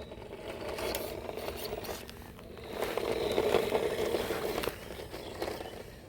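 Small electric motor and gears of an RC model car whirring as it drives, with scraping and crackling. The sound swells about three seconds in and eases off toward the end.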